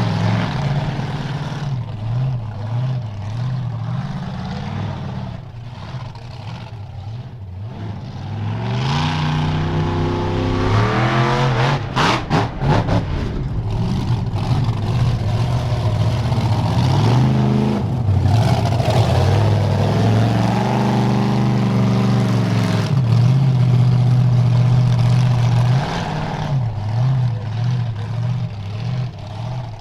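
Monster truck engine running, revving up in rising surges with a cluster of sharp cracks about twelve seconds in, then holding a loud, steady note for a few seconds before easing back.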